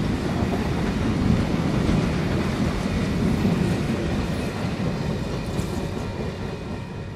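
Streamlined passenger cars rolling past on steel wheels over the rails, a steady rumble that fades as the last car goes by near the end.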